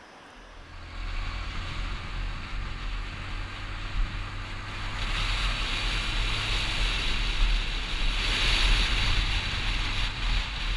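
Strong wind buffeting the microphone: a steady low rumble with rushing noise that starts about half a second in and grows stronger about halfway.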